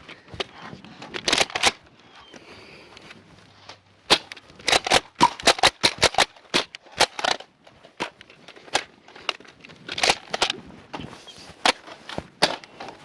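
Nerf foam-dart blasters being primed and fired: a rapid, irregular series of sharp plastic clacks, densest in the middle.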